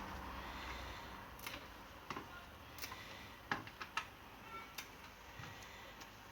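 Faint, irregular small clicks and snaps of fresh parsley leaves being plucked from their stems by hand.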